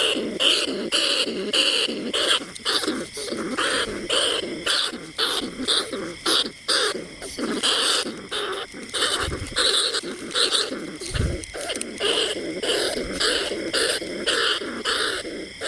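Rat calls used as a lure for bandicoot rats and field rats: short squeaking cries repeated a few times a second without a break.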